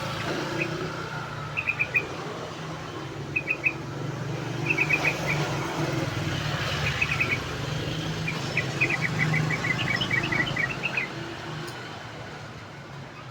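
Yellow-vented bulbul (trucuk) chattering in short bursts of quick high chirps, mostly groups of three or four notes, with a longer run of chirps about nine to eleven seconds in. A steady low rumble like traffic runs underneath.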